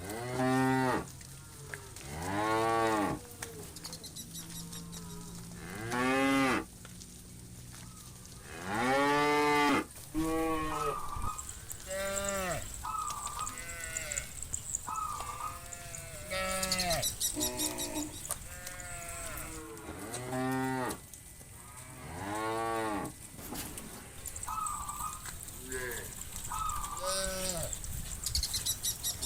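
A herd of cattle mooing, one cow after another. There are over a dozen long, arching calls with short gaps between them, some lower and some higher-pitched.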